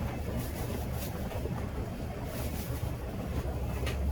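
Steady low rumble of a running engine, with a couple of light clicks.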